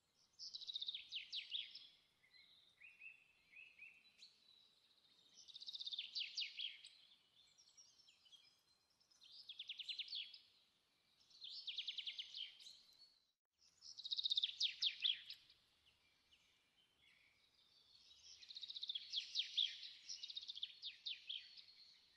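A songbird singing: about six phrases of rapid high trills, each a second or two long, separated by short pauses.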